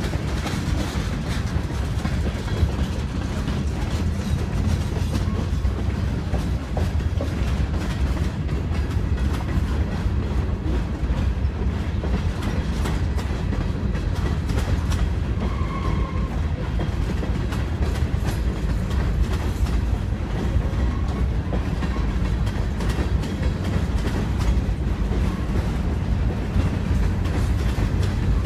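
Freight cars of a long train rolling past close by: a steady low rumble with wheels clicking repeatedly over the rail joints.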